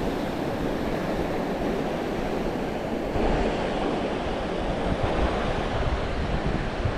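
North Sea surf washing onto the beach, with wind buffeting the microphone; the wind rumble gets stronger about three seconds in.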